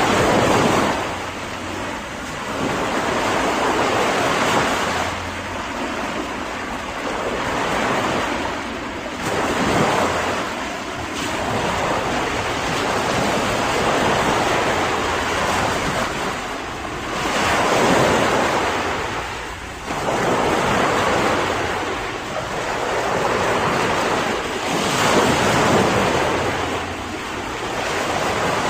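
Sea surf: waves breaking and washing in, the rush of water swelling and easing every few seconds.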